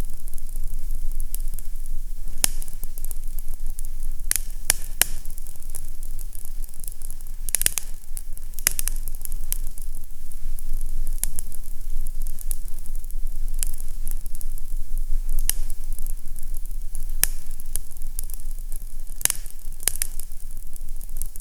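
Fire crackling in a fireplace: irregular sharp pops and snaps over a steady hiss, with a constant low rumble underneath.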